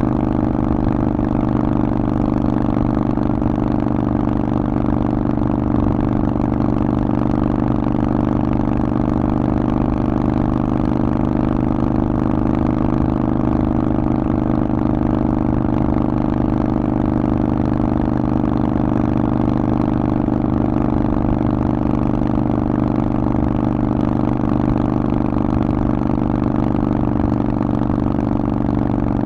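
Harley-Davidson Forty-Eight's 1200 cc air-cooled V-twin through a Vance & Hines aftermarket exhaust, running at a steady, unchanging engine speed.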